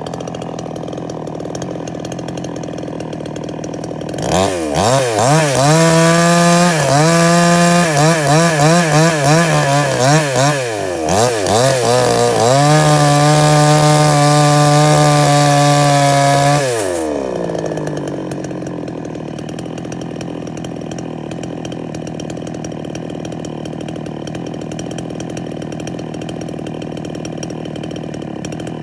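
Two-stroke chainsaw idling, then revved up and down in quick bursts of throttle for several seconds, held at high revs for about four seconds, and let drop back to idle.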